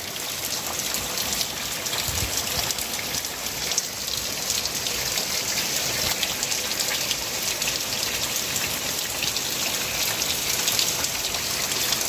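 Heavy rain falling steadily: a dense, even hiss with many small drop impacts on surfaces.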